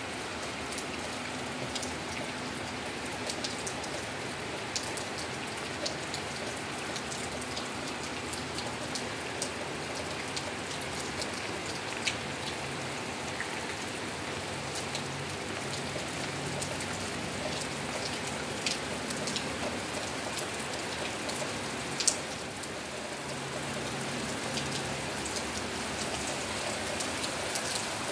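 Steady rain falling on pavement and outside surfaces, with scattered sharp drips ticking close by, one louder about two-thirds of the way through.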